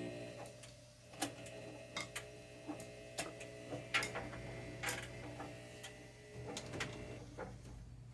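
Washer-dryer combo running: a steady hum with a whining tone over it and irregular sharp clicks and knocks, the whole sound dying away near the end.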